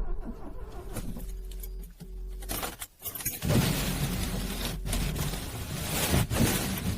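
Cold car engine cranking on its electric starter, struggling to start. The cranking breaks off just before three seconds in and a louder cranking attempt starts about half a second later.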